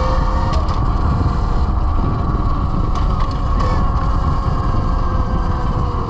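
Velimotors VMX12-F electric motorcycle's motor whining at a nearly steady high pitch while riding, with wind rumbling on the microphone. A few brief clicks come through.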